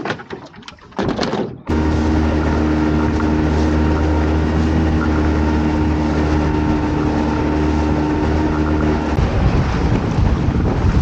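Small boat's outboard motor cuts in suddenly and runs at a steady speed. About nine seconds in, the steady engine note gives way to rushing wind and water noise.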